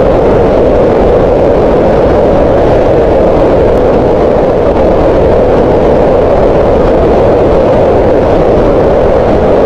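Green noise: a loud, unchanging rush of noise strongest in the middle range and softer in the lows and highs.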